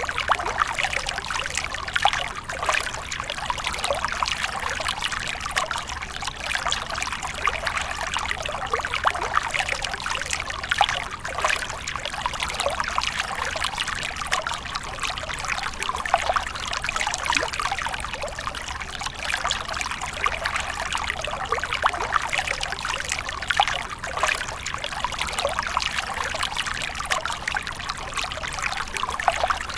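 Water splashing and trickling steadily, a continuous dense patter of small splashes with no pauses.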